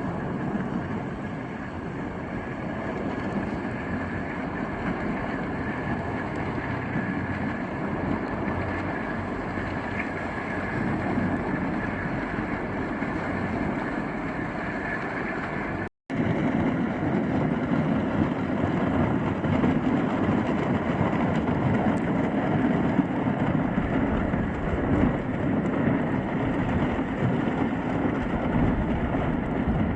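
Solar-electric passenger boat underway through thin lake ice: a steady rushing noise of hull, water and ice, with wind on the microphone. It breaks off for an instant about halfway, then carries on a little louder.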